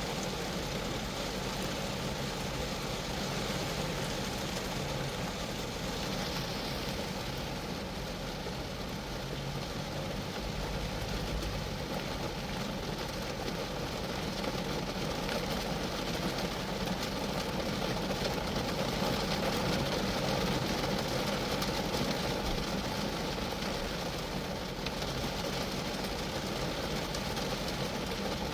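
Steady rain falling on a Geo Metro, a dense even patter of drops on the car's sheet-metal body and glass, with a low rumble underneath.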